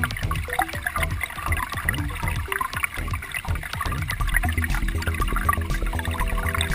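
Shallow creek water trickling and gurgling with small splashes. Background music with held notes comes in about four seconds in.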